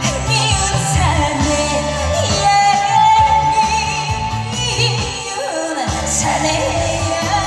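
A woman singing a trot song live over a band backing track, holding one long note with vibrato about three seconds in. The bass drops out briefly near six seconds and then comes back.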